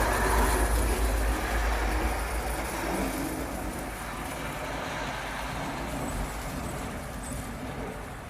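Snowplow truck clearing the road drives past, its engine and road noise loud at first and fading steadily as it moves away.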